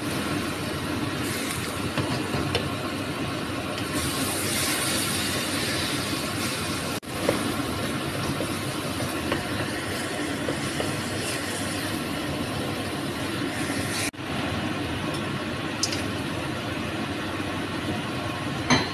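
Eggplant bharta frying in a wok on a gas stove: a steady rushing sizzle, with the odd scrape and knock of a wooden spatula against the pan. The sound drops out briefly twice, about seven and fourteen seconds in.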